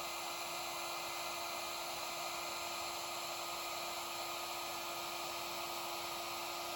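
Handheld electric power tool running steadily on the epoxied teak collar, a continuous motor hum over hiss.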